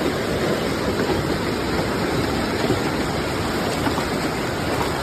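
Steady rushing noise of a severe thunderstorm: heavy rain pouring and wind blowing, with no separate hits or peaks.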